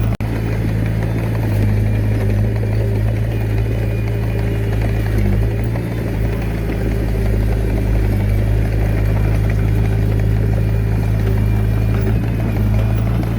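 Komatsu D21A mini bulldozer's diesel engine running steadily at an even pitch.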